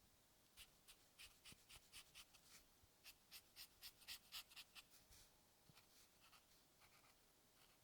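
Soft, quick drawing strokes scratching across paper, a run of short strokes at about three or four a second that come fastest and loudest in the middle and thin out near the end.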